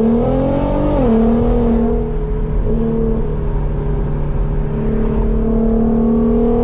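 Infiniti Q50's engine and exhaust pulling with a rising note, which drops sharply about a second in, then holds a steady note at cruise.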